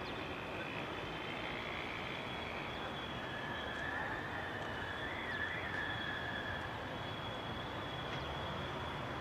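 Electric commuter train rolling slowly toward the listener: a steady rumble and hiss of wheels and running gear, with a faint thin high whine held over it.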